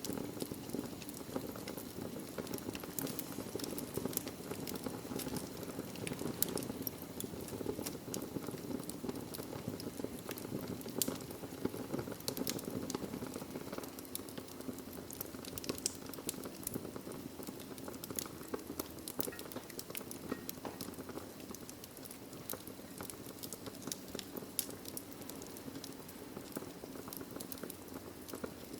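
Wood fire burning in a fireplace: logs crackling with frequent irregular sharp pops over a steady low rush of the flames.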